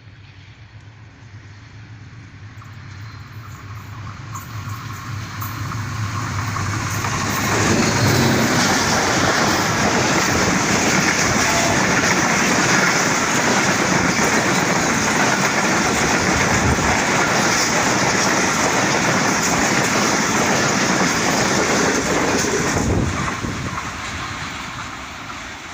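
Pakistan Railways express passenger train passing at speed. A low diesel locomotive drone builds as it approaches, then the coaches rush past with loud wheel clatter for about fifteen seconds, falling away suddenly near the end as the last coach clears.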